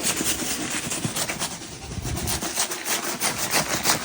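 Gritty crunching and crackling of rock salt on snowy, icy ground, a dense run of small irregular crackles, dipping briefly a little past the middle.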